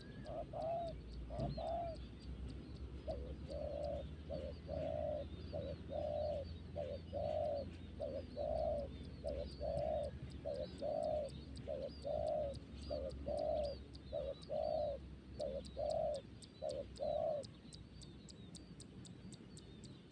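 Zebra dove (perkutut) cooing: a long run of short, evenly spaced coo notes, about one and a half a second, that stops a few seconds before the end. Faint high chirps from small birds sound behind it.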